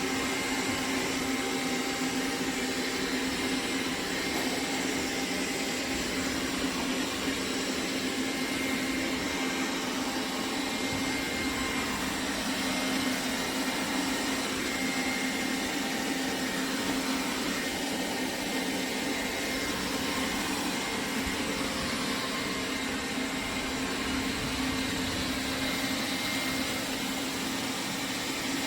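roborock Q7 MAX+ robot vacuum running, a steady, even motor hum with a constant low tone that holds unchanged throughout.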